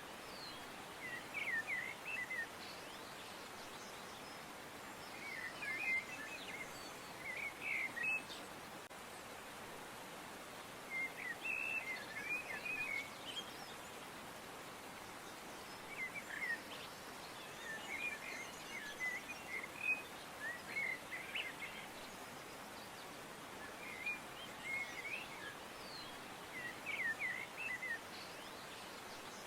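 Small birds chirping in short twittering bouts every few seconds, over a steady background hiss.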